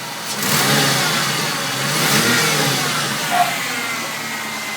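2000 Ford Mustang's 3.8-litre V6 engine revved twice, once about half a second in and again around two seconds, its pitch rising and falling each time before it settles back to a steady run. A short sharp click is heard a little past the middle.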